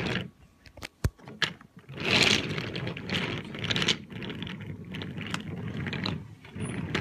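Wooden toy train cars rolling across a plastic-coated tablecloth, a rattling rolling noise with scattered clicks. A sharp click comes about a second in, and the rolling runs steadily from about two seconds on.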